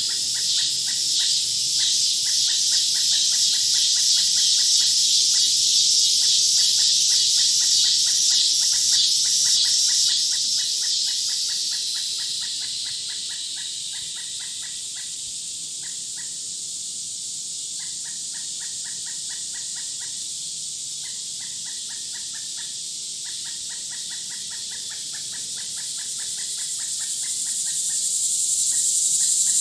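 Woodland insect and bird chorus: a loud, high-pitched pulsing buzz that fades about twelve seconds in and swells back near the end, over a steady run of rapid, lower chirps.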